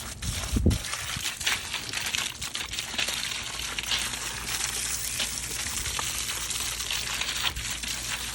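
Garden hose spraying a steady stream of water, a continuous hiss and spatter, with a brief low thud about half a second in.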